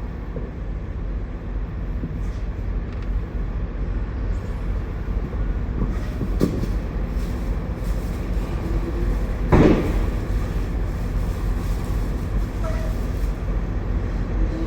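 Steady low mechanical rumble that slowly grows louder, with a short knock about six and a half seconds in and a louder sudden clatter about nine and a half seconds in.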